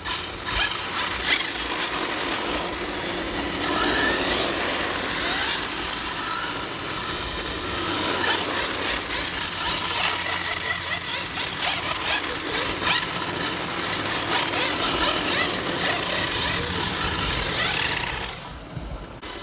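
1/8-scale electric RC drift cars sliding on pavement: drift tyres scraping and hissing, with the brushless motors' whine rising and falling as they are throttled. The noise dies away near the end.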